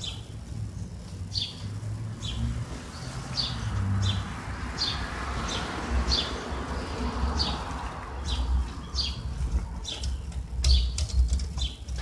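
A bird chirping over and over, one short high call about every second, over a steady low rumble.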